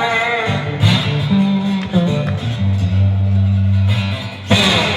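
A solo blues guitar plays the opening of a song: plucked notes and strums with low notes held between them, and a hard strum near the end.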